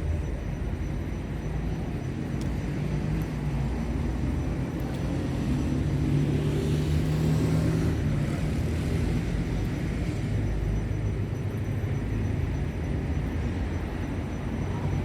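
Low background rumble of a passing motor vehicle, swelling about halfway through and fading again.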